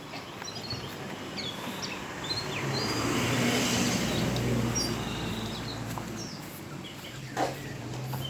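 A motor vehicle passing, its engine hum swelling to a peak about halfway through and then fading, with birds chirping throughout.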